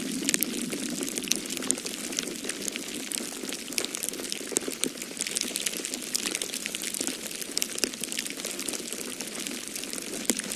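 Wood fire crackling in a fireplace, with frequent small sharp pops at irregular intervals, over a steady low rush of storm wind.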